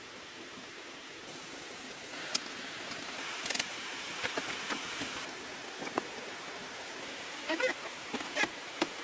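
A steady outdoor hiss with scattered light clicks and taps, several coming close together near the end.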